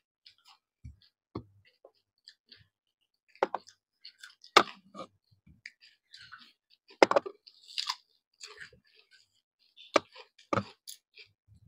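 Close-up chewing and lip-smacking of people eating chicken curry with rice, with several sharp clicks scattered through.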